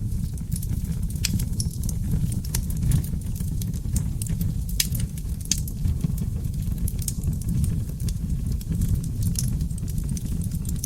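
Seasoned oak logs burning in a fireplace: a steady low rumble of flames with frequent irregular crackles and sharp pops.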